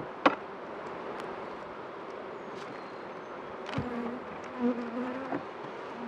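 Honeybees buzzing steadily over an open hive, with one bee buzzing close by at a steady pitch for about a second and a half past the middle. A sharp knock comes right near the start, along with a few fainter clicks.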